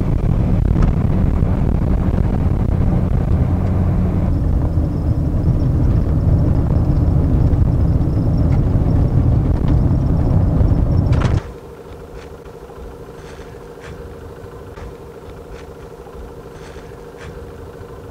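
Steady low rumble of a moving vehicle, with a faint high whine joining about four seconds in. About eleven seconds in it drops abruptly to a much quieter steady hum with a few light clicks.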